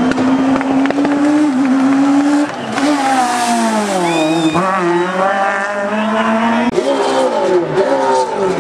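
Competition car engine at high revs on a hillclimb, holding a steady note, then dropping in pitch and climbing again as it comes off the throttle and shifts gears, with short dips and rises near the end.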